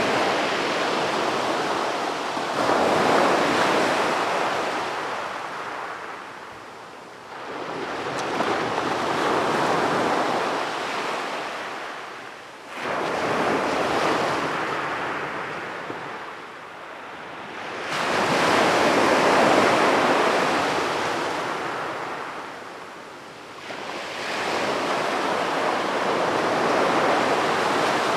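Sea waves breaking on a beach, each one a rush of surf that swells up and fades away over several seconds, about six in a row.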